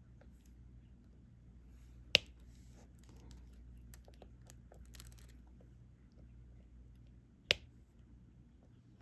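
Diamond painting: a stylus picking up small resin drills and pressing them onto the canvas, with faint light ticking and two sharp clicks, about two seconds in and near the end, over a low steady hum.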